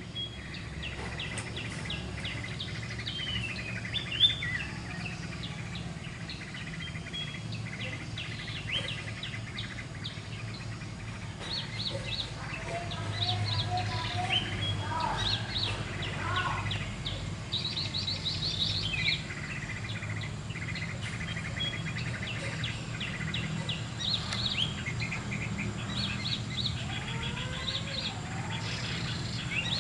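Small songbirds chirping and trilling in quick high notes, with a few lower sliding whistles mixed in, over a steady low hum. There is one sharp knock about four seconds in.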